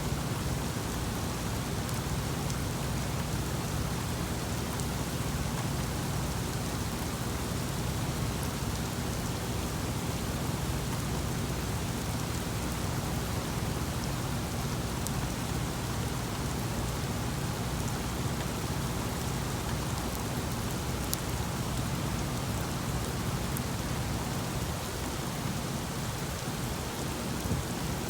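Heavy rain falling steadily in a thunderstorm, with a low rumble of thunder underneath.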